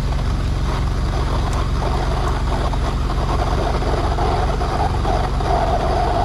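Drain jetting machine running steadily under load, its root-cutting nozzle working underwater in the blocked pipe, so no cutting noise comes through. A rushing noise over the engine hum grows stronger about five seconds in.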